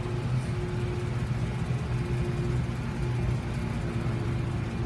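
Chevrolet 3500 pickup truck's engine idling steadily with a low, even hum.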